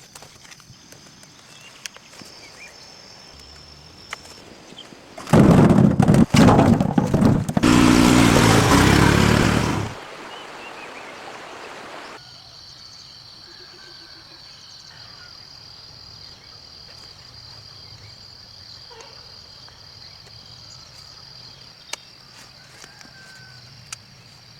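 A loud rushing, noisy burst lasting about five seconds, then a steady high insect drone with a few faint clicks.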